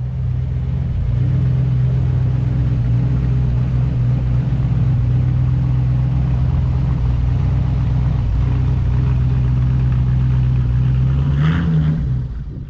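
Motor vehicle engine running steadily at idle. Near the end it rises briefly in pitch, then the sound drops away.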